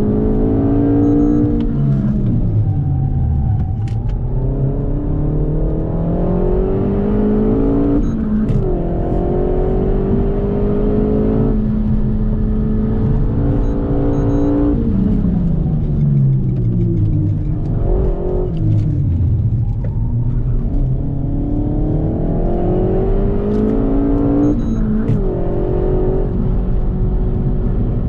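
Renault Megane 4 RS Trophy's turbocharged four-cylinder engine, heard from inside the cabin and driven hard on track. The revs climb repeatedly and break off sharply at gear changes, then fall away in long glides as the car slows, over a steady low road and tyre rumble.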